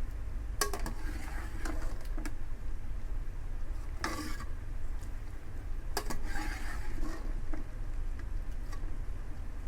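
Spoon clinking and scraping against a cooking pan in scattered strikes and short scrapes, as boiled pasta is tipped into a white sauce and stirred.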